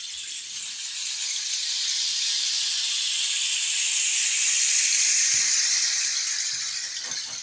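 Long homemade rain stick being tipped, its filling trickling through in a continuous rushing hiss like falling rain. It swells over the first few seconds, is loudest a little past the middle, and eases off near the end.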